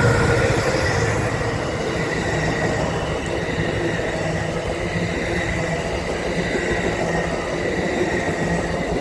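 Amtrak passenger train rolling past, a steady loud rumble of wheels and cars on the rails with a faint high steady tone over it, loudest near the start.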